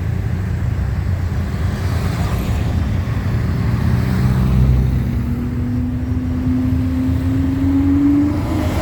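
Car engine rumbling low, then from about halfway an engine note that climbs steadily in pitch as the car accelerates.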